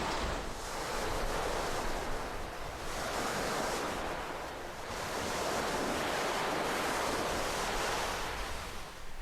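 Ocean surf: waves breaking and washing ashore as a continuous rushing hiss that swells and ebbs several times.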